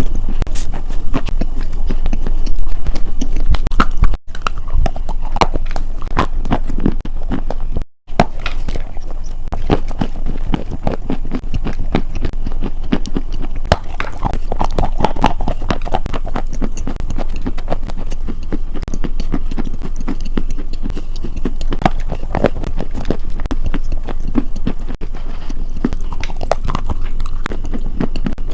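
Close-miked crunching and chewing of crunchy food, a dense run of sharp irregular crunches, broken by two brief dropouts about four and eight seconds in.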